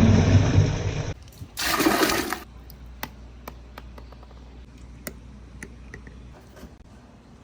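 Water rushing down a marble-run water slide, cutting off suddenly about a second in, with a second short rush soon after. Then scattered light clicks, typical of marbles ticking against the course.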